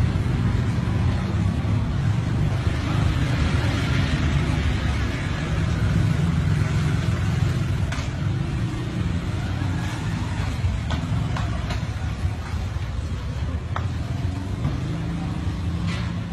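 Steady low rumble of street traffic, with a few faint short clicks.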